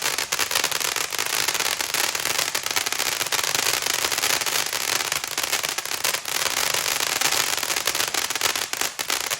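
Ground fountain firework burning: a steady, dense hiss of spraying sparks with rapid crackling throughout.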